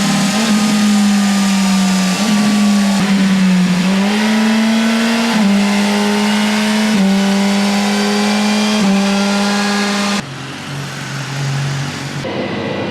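BMW motorcycle engine running, held at steady speeds that step up and down in pitch every second or two. About ten seconds in it cuts to a quieter, lower run.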